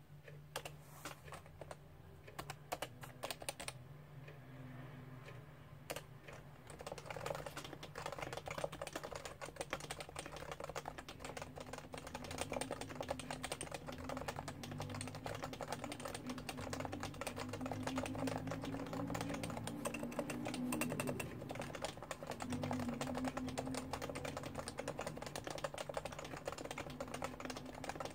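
Typing on a Realforce R2 keyboard with Topre electrostatic capacitive switches: rapid, continuous keystrokes, sparser for a couple of seconds about four seconds in, then dense and steady.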